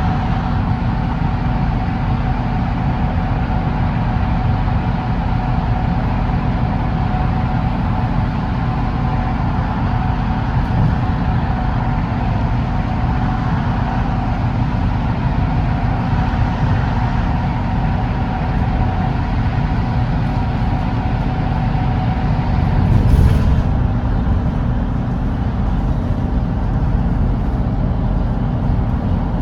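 Volvo B8RLE double-decker diesel bus running steadily at highway speed: a continuous low engine drone and road rumble with a faint steady whine. About 23 seconds in there is a brief louder rush of noise.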